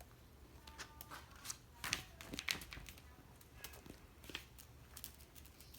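Faint, scattered rustling and small sharp clicks, irregular and spread through the whole pause, like something being handled close to the microphone.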